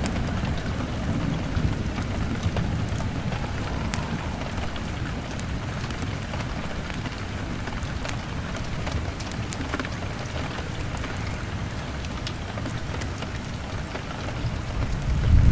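Steady rain on a window with a low thunder rumble that eases over the first few seconds and swells again near the end. Scattered sharp crackles from a wood fire run through it.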